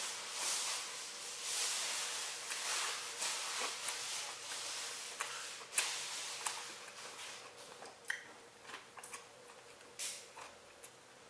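A person chewing a mouthful of sandwich: wet smacking mouth sounds with sharp clicks, the loudest click about six seconds in, growing quieter in the second half.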